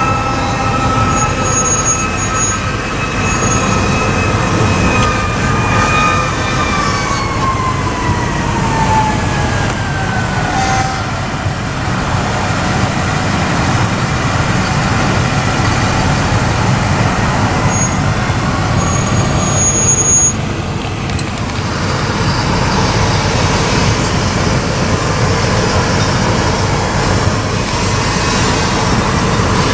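A fire engine's mechanical Q siren holds a high steady tone, then winds down, falling in pitch over about five seconds. Steady vehicle engine and road noise from the responding fire engines and traffic carries on throughout.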